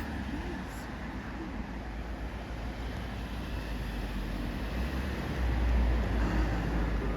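Steady low outdoor rumble, swelling louder about five and a half seconds in.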